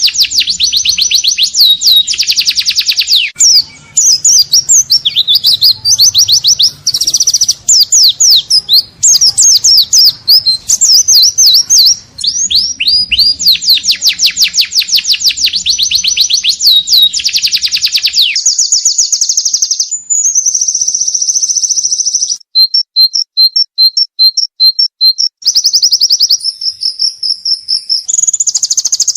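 Pleci (white-eye) singing loudly in its 'ngalas' style: long runs of rapid high chirps, many sweeping down in pitch. After about eighteen seconds the song changes to shorter phrases, a held whistled note and a string of brief clipped notes at about four a second.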